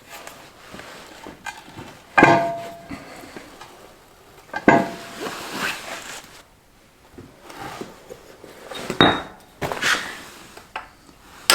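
Steel excavator buckets clanking as they are handled, about five separate metal knocks, some with a short ring.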